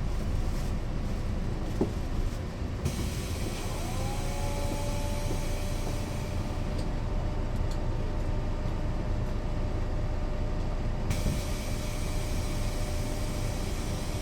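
Mercedes-Benz O 405 NÜ bus running under way, its diesel engine and drivetrain giving a steady low rumble. About four seconds in, a whine rises in pitch and then holds steady. A higher hiss joins from about three seconds in until near the end.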